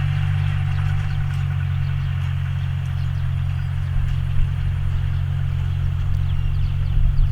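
John Deere 5045D tractor's three-cylinder diesel engine running steadily at an even pace.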